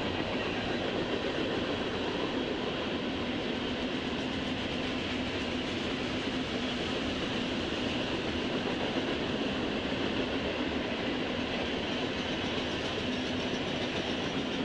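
Freight train cars rolling past at speed: a steady, unbroken rumble and rattle of steel wheels on rail, with a steady low hum running under it.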